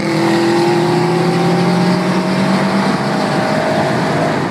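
A car engine under way, heard from inside the cabin over road and wind noise, its pitch rising slowly and steadily as the car accelerates.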